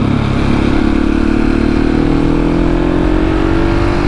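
Husqvarna 701's single-cylinder engine pulling under steady acceleration, its pitch climbing slowly, with wind rushing past.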